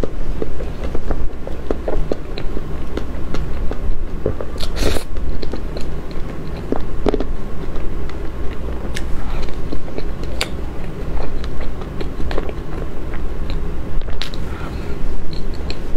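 Chewing and mouth sounds of soft cream-frosted cake eaten by the spoonful, with frequent short sharp clicks, a few of them louder.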